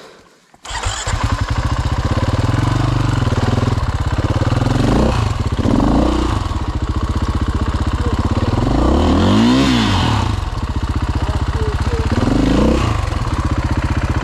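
Dirt bike engine starting suddenly about half a second in and running at a steady idle. The rider blips the throttle several times; the longest rev rises and falls about two-thirds of the way through.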